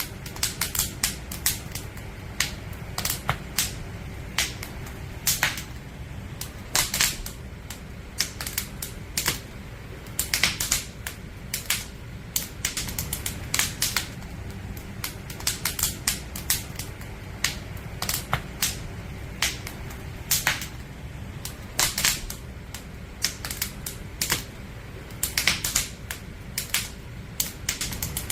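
Burning firewood crackling and popping: irregular sharp snaps, several a second, some louder than others, over a low steady rumble.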